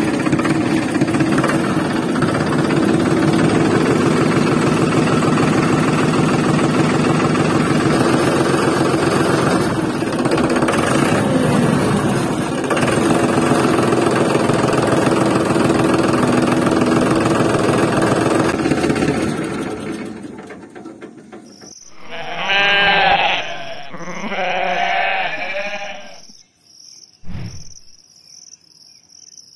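A steady engine-like running with a fast regular pulse fills the first twenty seconds, then stops. Two sheep bleats follow, each about two seconds long, over a quick, regular high chirping like insects.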